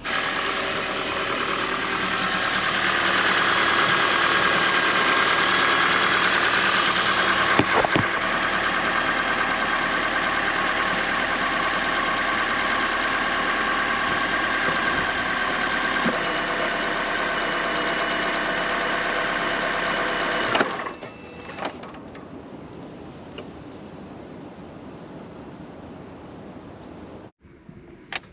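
Toyota Prius (ZVW30) 1.8-litre four-cylinder petrol engine starting and running steadily, then stopping about twenty seconds in, leaving a much quieter steady hum.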